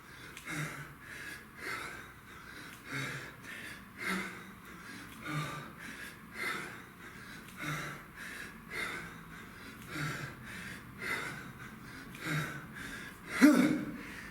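A man breathing hard in a steady rhythm while doing kettlebell reps, a forceful breath about once a second, with a louder grunting exhale near the end.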